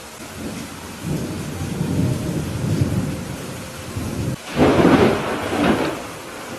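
Thunderstorm with steady rain falling: thunder rumbles low from about a second in, then a louder, sharper thunderclap crashes about four and a half seconds in and fades.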